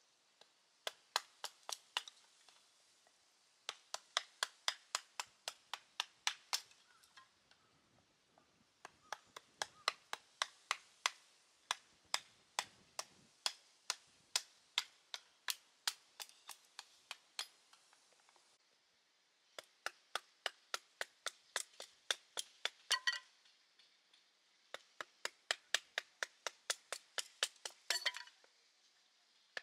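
Small kindling sticks being cut with a blade: runs of sharp wooden chops, about three a second, broken by short pauses.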